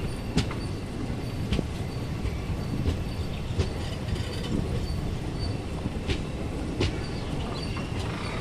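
Express passenger train running on the rails: a steady low rumble with irregular clicks and knocks of the wheels over the track.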